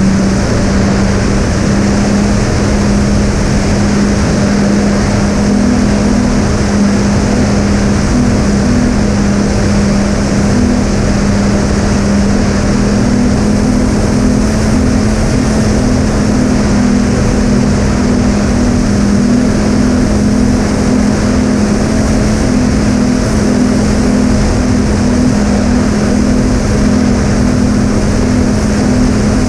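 Twin brushless motors (Sunnysky 2212 980 kV) driving three-blade 7x4 propellers, running steadily in cruise, a constant hum in two close pitches with one pitch coming and going, over steady wind rush.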